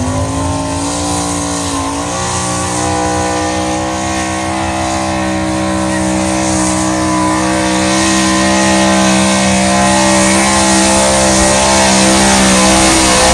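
Small-block Chevy V8 of a pulling truck running hard at high revs, its pitch held nearly steady under the load of the pull. It dips briefly about a second and a half in, then recovers and grows steadily louder.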